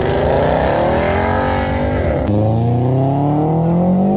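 A car engine accelerating hard. It rises in pitch, drops briefly at a gear change just past two seconds in, then rises again.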